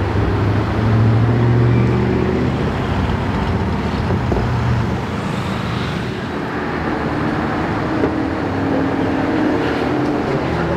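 Audi RS7 Sportback's twin-turbo V8 driving slowly past, with a low engine note loudest about a second or two in. About halfway through it gives way to a Maserati GranTurismo S V8 driving by with a higher engine note.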